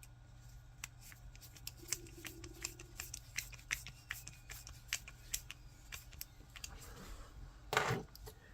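Small 3D-printed plastic parts being handled and fitted together by hand, giving a run of irregular light clicks and ticks, a few a second, with one louder scrape near the end.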